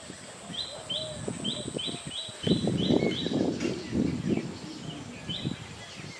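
A bird calling outdoors, a quick series of short high chirps about three a second, then one more chirp near the end. Under the chirps, a louder patch of low rustling noise runs through the middle.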